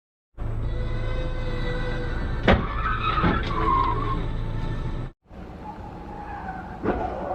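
Car road noise, with a sharp crash impact about two and a half seconds in followed by tyres skidding. After a brief break, another car's road noise and a second sharp impact near the end.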